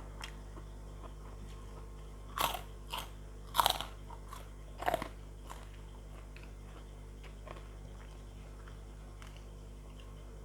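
Close-miked biting and chewing of crisp fried food: four loud crunches in quick succession a couple of seconds in, then only faint mouth sounds.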